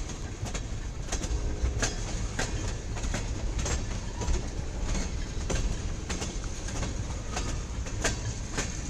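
Freight cars of a CSX local freight train rolling by, steel wheels clacking unevenly over rail joints above a steady low rumble.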